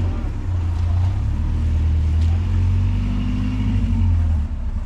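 A car engine running close by, a deep steady low rumble that drops away near the end.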